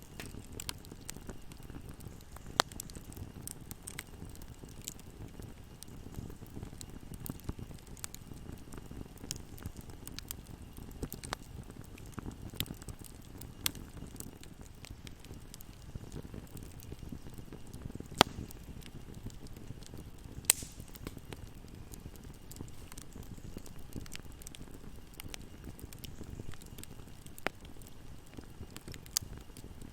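Wood fire in a fireplace crackling: a steady low rumble of the flames with irregular sharp pops and snaps, a few of them much louder than the rest.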